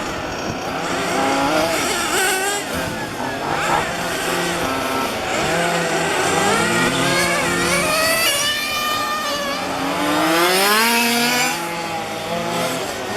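Several 1:5-scale petrol RC cars' small two-stroke engines revving up and easing off as they lap, their pitches overlapping and rising and falling. The loudest rev sweeps steeply upward about ten seconds in.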